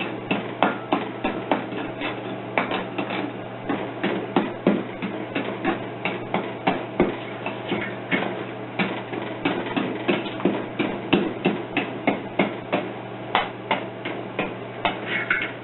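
Hammer blows striking a freshly poured engine cylinder head casting over and over, about three a second, knocking off crusty mold sand.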